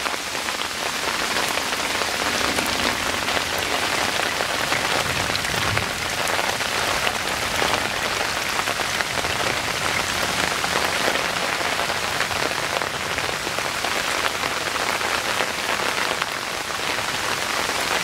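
Steady rain falling during a rainstorm: an even wash of many small drop impacts.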